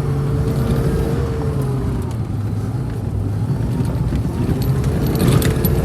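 Vehicle engine running in gear under load as it is driven, its pitch sagging a little about two seconds in and rising again near the end, with light metallic rattling near the end.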